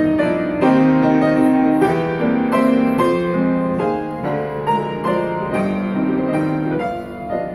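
Grand piano playing a solo interlude between sung verses of a Russian romance, a flowing melody over sustained chords.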